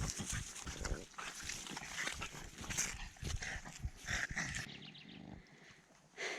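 A dog making noises close by, over irregular low thumps.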